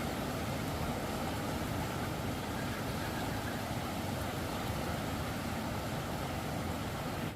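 A steady rushing noise with no distinct events, cut off abruptly at the end.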